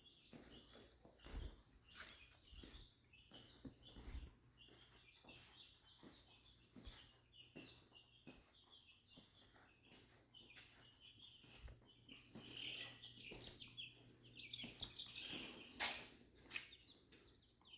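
Faint chickens clucking and chirping, in many short calls that grow busier in the second half, with a few light knocks, the loudest about 16 seconds in.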